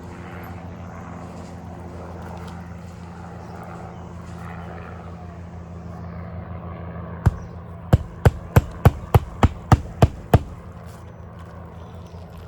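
Hammer driving a new roofing nail flat through an asphalt shingle: one tap about seven seconds in, then about nine quick strikes, roughly three a second. A steady low hum runs underneath.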